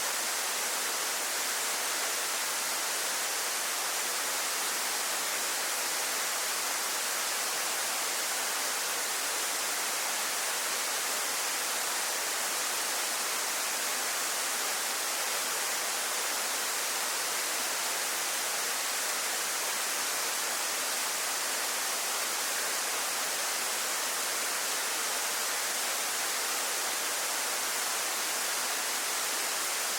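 Waterfall pouring, a steady, unbroken hiss of falling water strongest in the high range.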